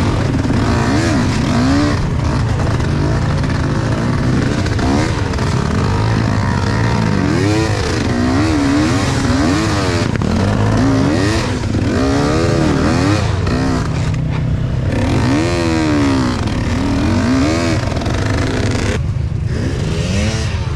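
Enduro motorcycle engine revving up and down again and again, its pitch rising and falling every second or two as the throttle is opened and closed, dropping back briefly twice in the second half.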